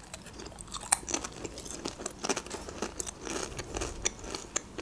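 Crunchy chewing of a long, stick-shaped potato chip: a run of many small, sharp crackles and crunches.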